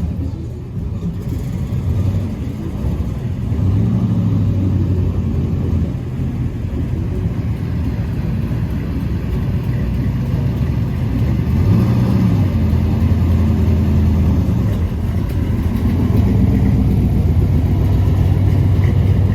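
Car engines running with a low rumble. The pitch rises as revs pick up a few seconds in and again about two-thirds of the way through.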